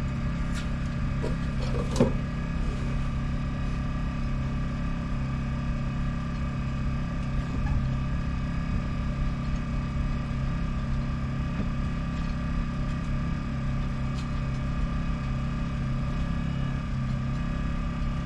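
Yanmar FX24EZ boat's inboard diesel engine idling steadily after its oil and filter change, with a few light clicks and one sharper knock about two seconds in.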